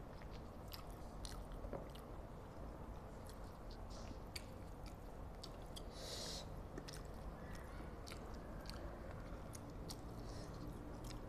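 A person chewing a mouthful of spicy instant fried noodles, close to a clip-on microphone, with many small wet mouth clicks scattered through.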